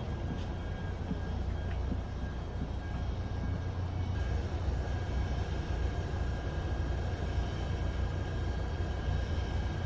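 Electric train sound: a steady low rumble with a faint steady high whine over it.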